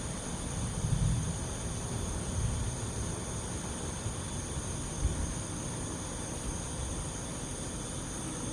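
Steady high-pitched chorus of night insects, crickets, with a low rumble of distant thunder about a second in and a brief low thump near the middle.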